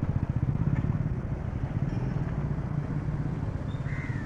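A motor vehicle engine running steadily close by, a low rumble with a fast, even pulse. A crow caws once near the end.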